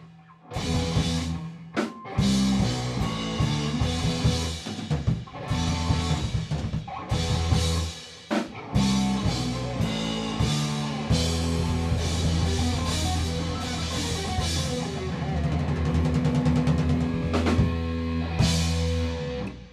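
Rock band rehearsing a song with a drum kit and guitar: punchy stop-start chord hits, then a long held passage, before the band stops together near the end.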